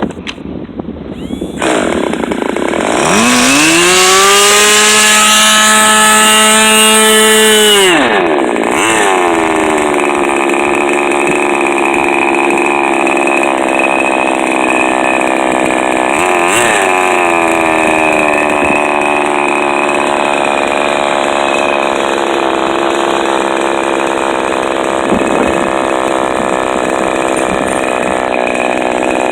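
Fox .45 two-stroke glow model-airplane engine with an APC 10x6 propeller starting up on its first run. It catches about a second and a half in, revs up to a high, steady whine, changes speed about 8 seconds in, then keeps running steadily, with a brief blip in speed midway and a dip near the end.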